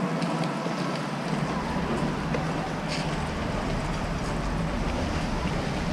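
Mini excavator's diesel engine running steadily, with a low rumble that comes in about a second in, and a few faint knocks.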